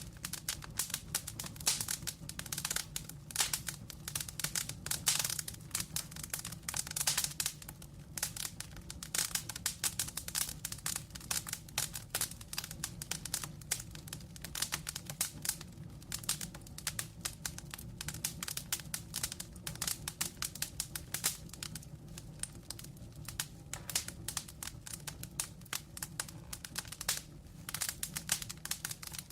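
Wood fire crackling: many irregular small pops and snaps over a steady low roar of flame.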